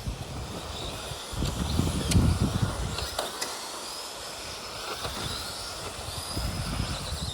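Electric motors of Tamiya radio-controlled race trucks whining, the pitch rising and falling as they speed up and slow down, with a few sharp clicks and low rumbles in between.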